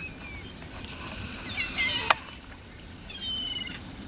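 Seagulls calling: three bursts of short, high cries that slide down in pitch, with a single sharp click just after two seconds in.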